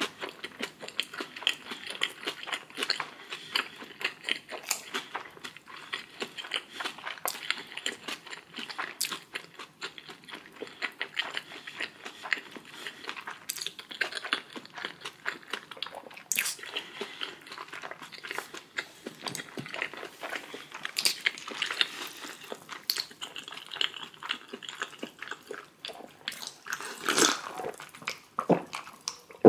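Close-miked chewing and wet mouth smacking of a person eating, a steady stream of small clicks and smacks, with a louder burst near the end.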